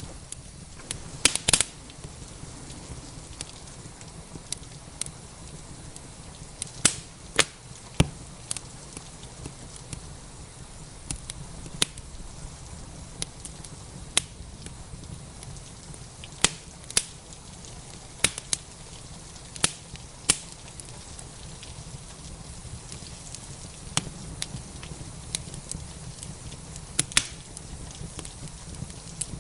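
Wood fire crackling, with sharp irregular pops and snaps over a steady hiss of rain and a low rumble.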